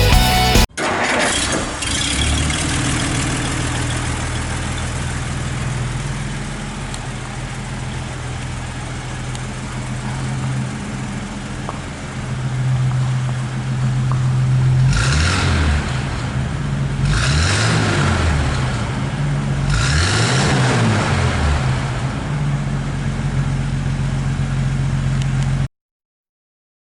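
1949 Dodge Wayfarer's 230 cubic-inch L-head inline-six idling steadily, then blipped three times in the second half, each rev rising and falling back to idle. The sound cuts off suddenly near the end.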